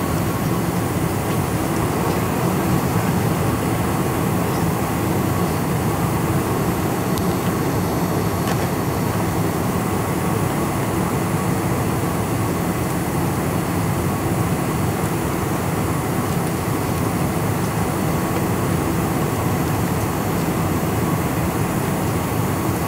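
Steady cabin noise inside a Boeing 747-400: a constant rumble and roar from its engines and airframe, with a few faint steady tones above it.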